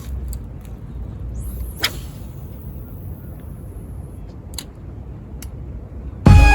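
Low rumble of wind on the microphone, with a few sharp clicks and a brief rising whoosh about two seconds in. Music starts loudly near the end.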